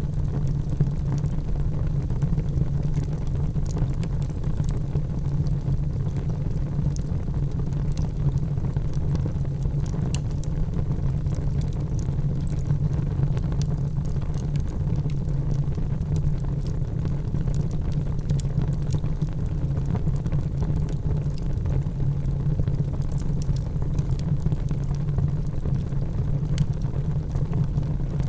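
Wood fire in a fireplace crackling, with a steady low rumble under many small, irregular crackles and pops.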